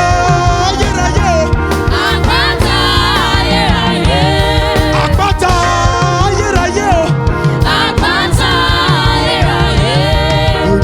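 Gospel worship music: sung vocal lines held and bending over a full band with a steady beat. The words are not made out.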